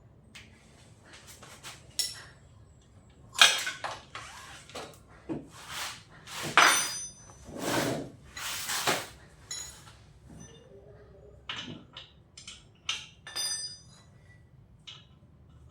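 Hand tools and small metal parts clicking, knocking and clinking as the front brake cable is undone on a classic motorcycle, some strikes leaving a brief metallic ring, over the steady hum of a workshop fan.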